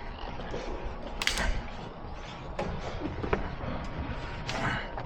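A few scattered light clicks and knocks of tools and parts being handled over a low steady background hiss.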